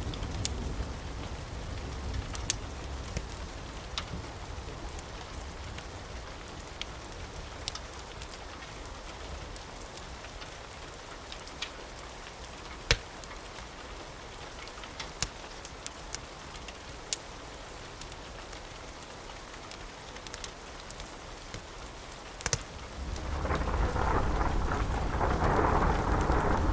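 Steady rain with thunder: a low rumble fades out at the start, scattered sharp clicks fall throughout, and a loud roll of thunder builds near the end.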